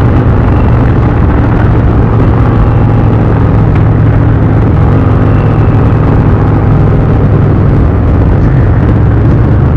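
An Indian touring motorcycle's V-twin engine running steadily while riding, with wind rushing over it.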